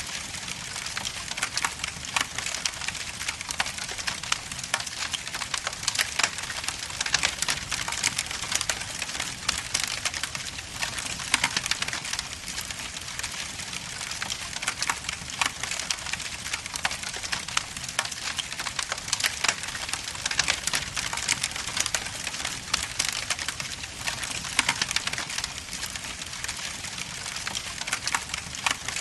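Wood logs burning in a fireplace, with dense, continuous crackling and frequent sharp pops over a steady hiss.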